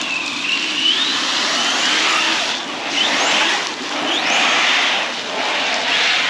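An Arrma Big Rock 6S RC truck's electric motor whines and revs up in repeated bursts. Several times there are gushes of hiss as it drives through flood water.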